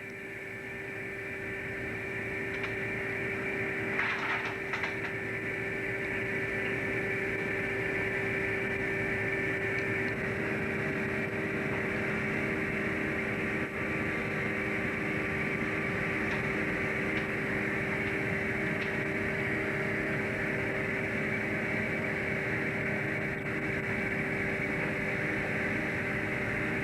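Steady drone of a fishing boat's engine and machinery heard aboard, a constant hum with a few fixed tones over a rushing noise, with one brief short noise about four seconds in.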